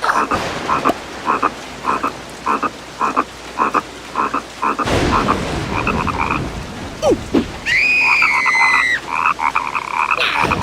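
Cartoon frog croaking over and over, about two croaks a second. A burst of noise comes about halfway through, and a longer high-pitched call comes near the end.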